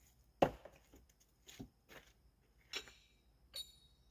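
A few sharp knocks and clinks of bluestone and hand tools being handled on a slab. The loudest comes about half a second in, and the last one, near the end, carries a brief high metallic ring.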